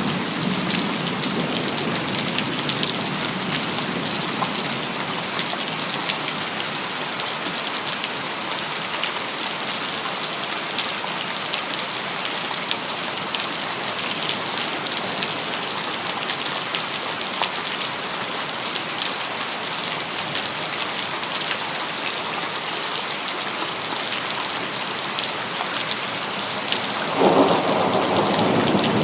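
Steady rain falling, an even hiss with thunder rumbling under it. A louder roll of thunder comes near the end.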